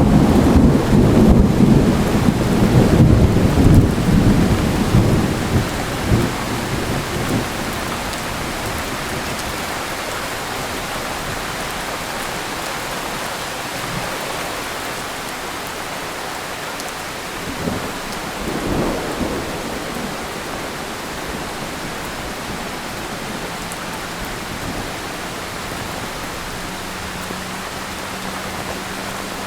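Heavy rain falling steadily, with a loud rolling rumble of thunder over the first several seconds and a softer rumble about two-thirds of the way through.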